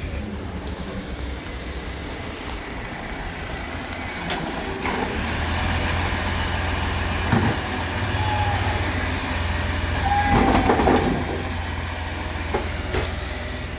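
FOGO kerbside collection truck's engine running, pitching up and getting louder about five seconds in, with a few metallic clanks and two short squeaks near the middle.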